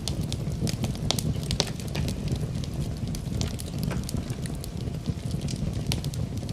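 Fire burning in a fireplace, crackling with many irregular sharp pops and snaps over a steady low rumble of the flames.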